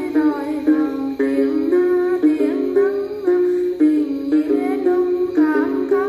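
Đàn tính lute plucked in a steady repeating pattern, under a wavering, ornamented Then vocal line.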